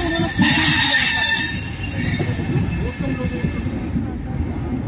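Passenger coaches of an arriving express rolling in slowly, their wheels squealing for about the first second and a half, then easing to a lower rumble of wheels on the rails.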